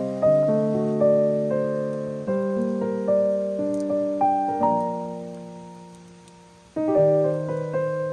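Slow solo piano music: chords struck roughly once a second, each dying away. The music fades nearly to nothing about six seconds in, and a new phrase starts just before the end.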